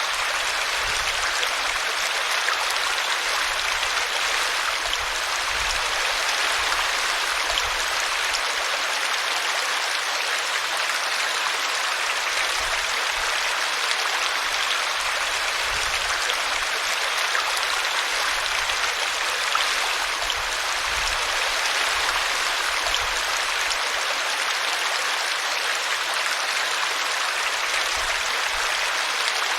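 Small brook running steadily, its water spilling over a tree root in an even, continuous rush.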